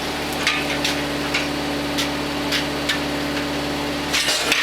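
An engine idling steadily, with scattered light clicks and knocks of metal being handled over it; the knocks come closer together near the end.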